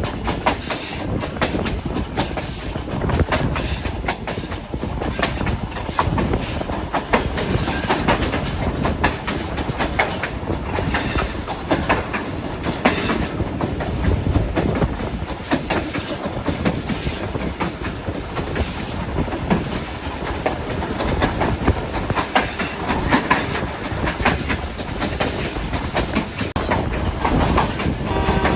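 Hazara Express passenger train running at speed, its wheels clattering steadily over the rail joints. A steady pitched tone comes in right at the end.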